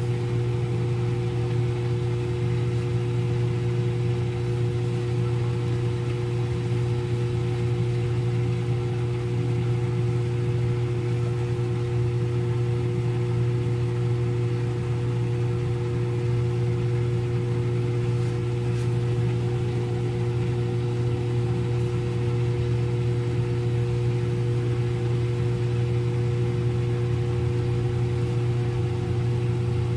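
Front-load washing machine in its spin cycle, the drum spinning at a constant speed: a steady deep hum with two steady whining tones above it.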